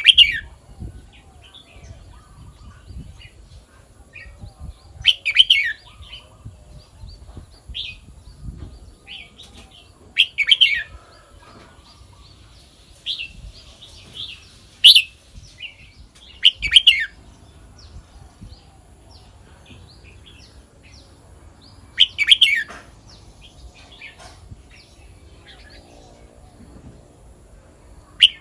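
Red-whiskered bulbul singing: short loud phrases every few seconds, with softer chirps in between.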